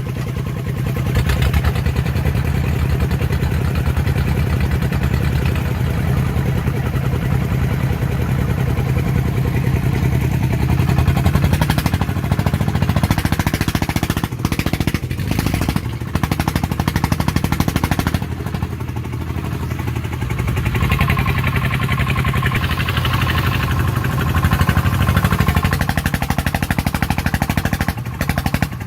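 Single-cylinder diesel engine of a farm vehicle running hard with rapid, even firing pulses, straining with a load on a slippery muddy road. A thin whine joins for a few seconds after the middle.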